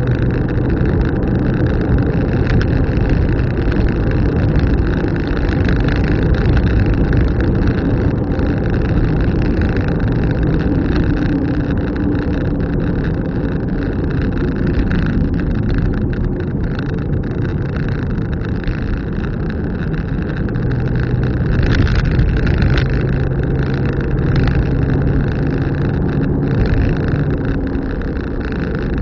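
A car being driven, its engine and road noise running steadily, with a faint engine hum that shifts in pitch a little. There are a few brief knocks past the middle.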